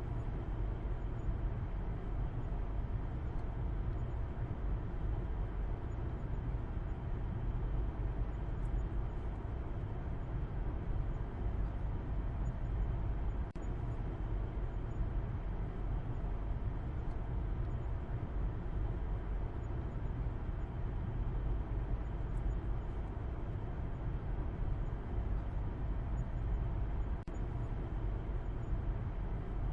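Steady low rumble of a car driving, road and engine noise, unbroken apart from two very short dips in loudness, one about halfway through and one near the end.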